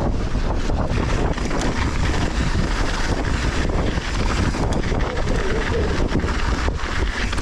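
Wind buffeting a GoPro's microphone during a fast mountain-bike descent, mixed with the tyres running over loose volcanic dirt and frequent quick knocks and rattles from the bike over rough ground.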